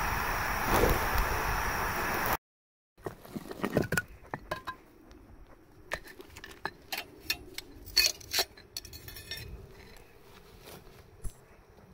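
A steady rushing noise that cuts off abruptly after about two seconds, followed by scattered light clinks and knocks of small hard objects being handled.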